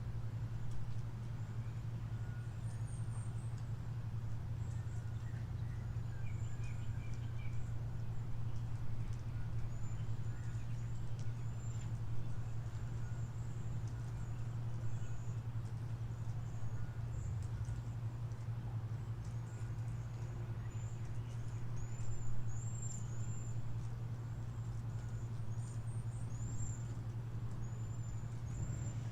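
Wild birds chirping: many short, high-pitched calls, coming in small runs that grow busier in the second half, over a steady low hum.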